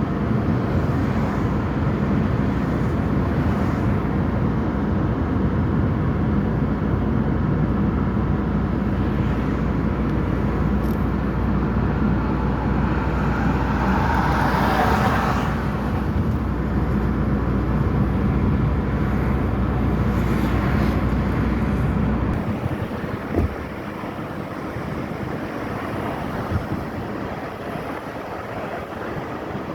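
Steady rumble and hiss of traffic on rain-wet roads, with a vehicle swishing past about halfway through. The low rumble drops away about three quarters of the way in, followed by a light knock.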